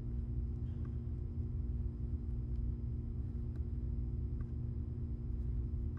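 A steady low rumble with a constant electrical-sounding hum underneath, unchanging throughout, and a few faint ticks.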